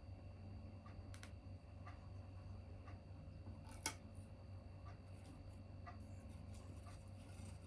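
Small tabletop wood fire crackling faintly: scattered irregular pops, one sharper pop about four seconds in, over a low steady hum.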